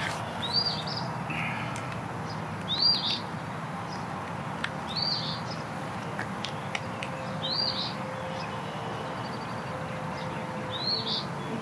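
A bird repeating a short, high call about five times, one every two to three seconds, over steady outdoor background noise. A few faint clicks come between the calls.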